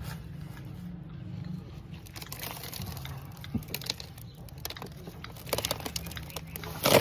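Toy mini truck being moved and handled in dirt: scattered crunching, scraping and small clicks over a low steady hum, getting denser and louder in the second half.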